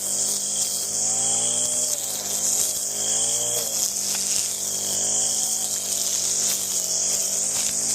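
Stihl string trimmer's two-stroke engine running after its no-start repair, its pitch rising and falling as the throttle is worked: revving up over the first few seconds, dropping sharply just before the midpoint, then rising again.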